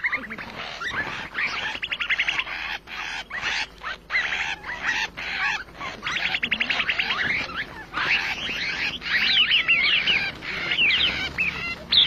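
A group of small brown ground birds calling: fast chattering trills of rapidly repeated notes, and quick rising and falling whistled calls that crowd together in the second half, with wings fluttering.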